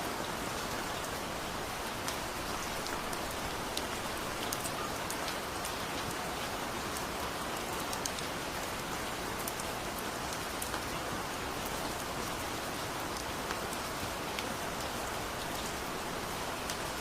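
Steady heavy rain falling on a surface, with a dense patter of individual drops and no thunder.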